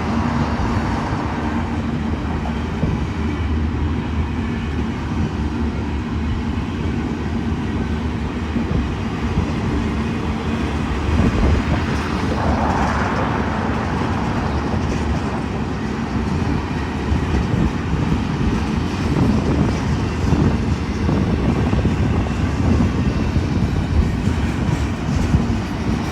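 Long Union Pacific intermodal freight train rolling past: a steady rumble of wheels on rail, growing rougher in the second half, with a brief higher-pitched swell about halfway through.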